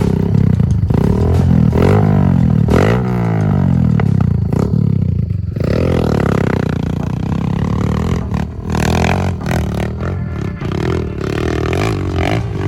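Trail motorbike engine revving hard, its pitch sweeping up and down again and again for the first five seconds or so, then running on at steadier revs.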